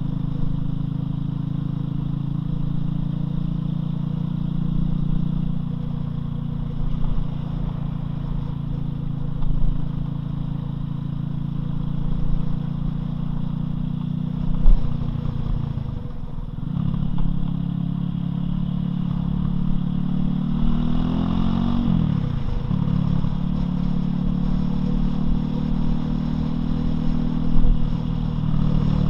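Loncin LX250-12C motorcycle engine running under way at a steady pace, with a brief drop in engine sound about halfway through and a falling engine note around three-quarters of the way in, then back to a steady run. A couple of short knocks stand out above the engine.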